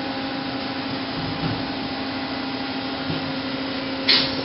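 Steady mechanical hum of a powered-up CNC horizontal machining center running at idle. A short, sharp knock comes near the end.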